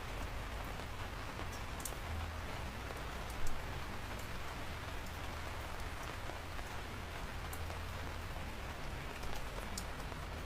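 Steady rain falling, an even hiss with scattered sharp drop ticks. One louder tap comes about a third of the way in.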